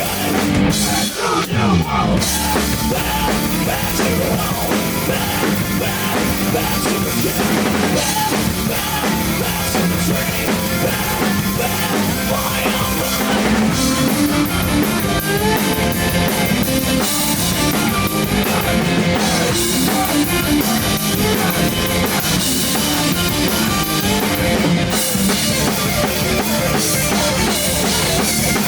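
Rock band playing a song, with a full drum kit driving it.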